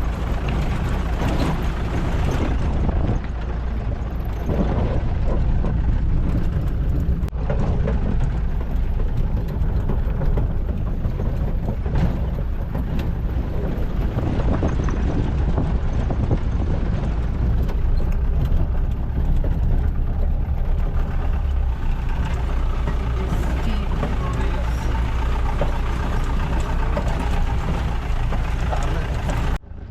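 Jeep running on a rough off-road track: a steady, loud low rumble of engine and road noise.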